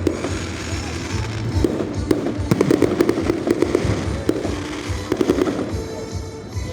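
Aerial fireworks bursting overhead: a dense run of crackling pops and bangs that thins out and quietens slightly near the end.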